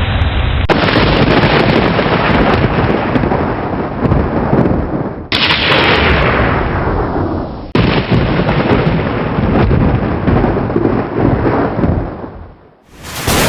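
Thunderstorm: loud, rumbling thunder over heavy rain, with a sharp thunderclap about five seconds in that rolls away. The sound changes abruptly a few times, as if separate recordings were spliced together, and fades out near the end.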